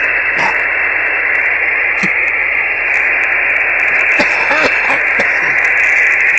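CB radio on single sideband receiving an open channel: a steady, loud hiss of static cut off sharply above the narrow sideband audio range. Faint distant voices come through under the noise about four to five seconds in.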